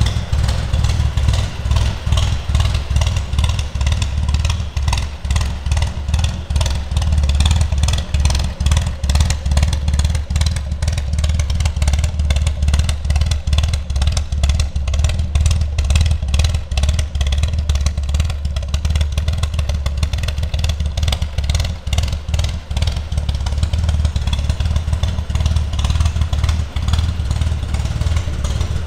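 Triumph Spitfire 4 Mk1's 1147 cc four-cylinder engine running steadily with a low, rapid, even pulse and no revving.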